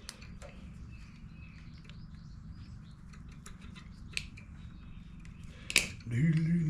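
Light scattered clicks and taps of hand work on a push mower's parts, with one sharper click near the end. Right after it a man starts humming a tune in a low voice.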